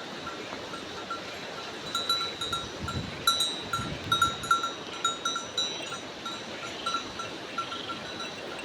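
Bells on a grazing flock clinking irregularly, several rings a second, busiest in the middle stretch, over a steady hiss.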